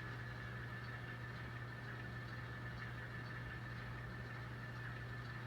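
Sound-equipped N scale Alco diesel locomotive idling steadily through its small onboard speaker, a low engine hum with a thin high whine over it.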